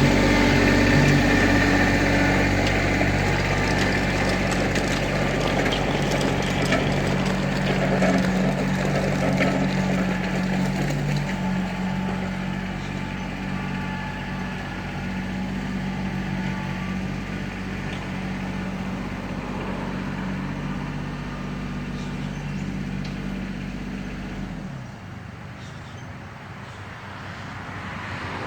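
Kubota L3700SU diesel tractor engine running steadily, with scattered light clicks and knocks over it, slowly getting quieter. Near the end the engine sound cuts off suddenly, leaving only wind noise.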